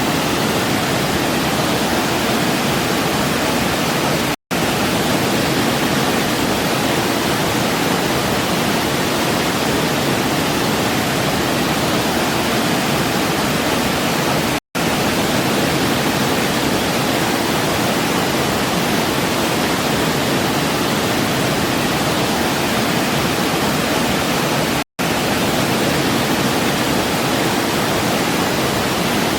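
Waterfall: a steady, dense rush of falling water, cutting out for an instant three times at even intervals about ten seconds apart.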